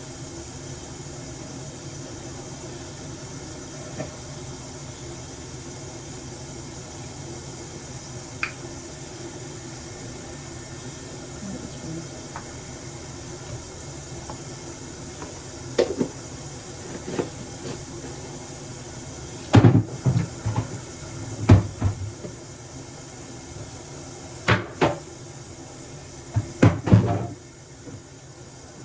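A steady hiss, then in the second half a run of short knocks and clunks, several in quick succession, with the loudest clusters near the end.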